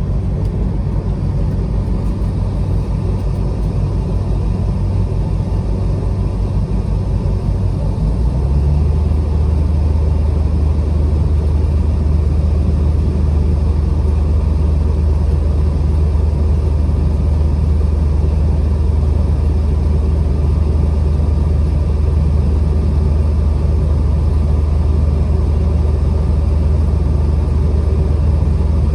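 Truck engine running with a steady low drone. About eight seconds in, the drone steps up a little in level and settles into a steadier low note.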